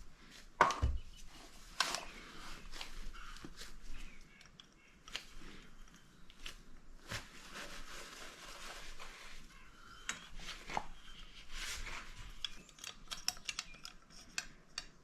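Small metal engine parts being handled and fitted by hand: scattered clicks, light clinks and rubbing, with one louder knock near the start and a run of quick ticks near the end.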